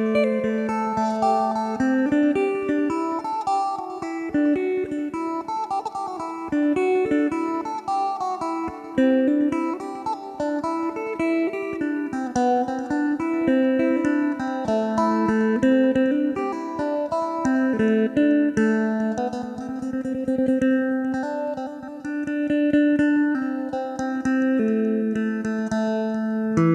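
Electric phin, the Isan plucked lute, with a padauk-wood body, played in a lively Isan style: a quick plucked melody over a steady drone string.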